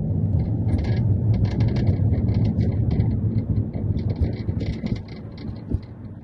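Interior rattle from the rear of a 2019 Mazda 3 sedan: quick, irregular buzzy clicks over a low, steady road rumble inside the cabin, easing a little near the end. The car is being driven over rough road, the condition in which the owner reports the rattle; its cause is unknown.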